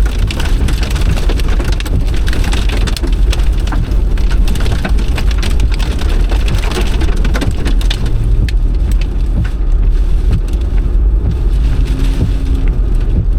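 Rain pelting a car, with dense drop impacts over a steady low rumble.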